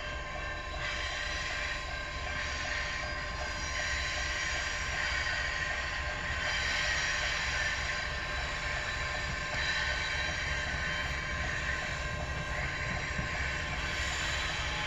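A train rolling past: steady rumble and hiss of rail cars running on the track, with faint steady tones.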